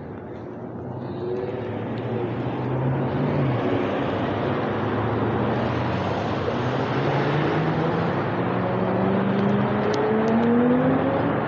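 A motor vehicle's engine and road noise, building over the first few seconds and then holding, with the engine note slowly rising in pitch.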